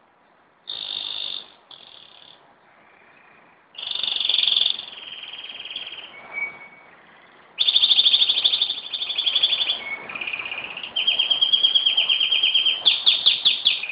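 Pet canary singing: short phrases of song from about a second in, then long, fast trills of rapidly repeated high notes through the second half.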